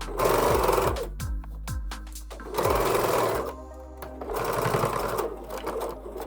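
Electric sewing machine stitching in three short runs, each about a second long, over background music.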